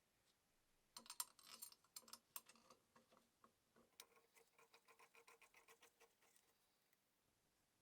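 Faint, light mechanical clicks, then a quick, even ticking at about five ticks a second that fades out after a couple of seconds.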